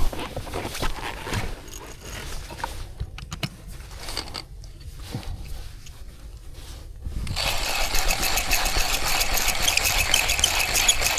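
Small clicks and rustles of coffee gear being handled, then about seven seconds in a dense crunching rattle of coffee beans that lasts about four seconds and stops suddenly.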